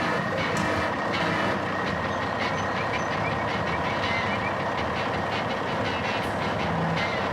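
Heavy construction vehicle's engine running steadily, with a faint steady whine over it.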